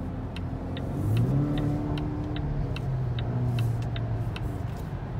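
Volvo S60 T6's four-cylinder engine heard from inside the cabin under hard acceleration: the engine note jumps up in pitch about a second in and holds high, easing slightly near the end. A light regular ticking, about two and a half a second, runs along with it.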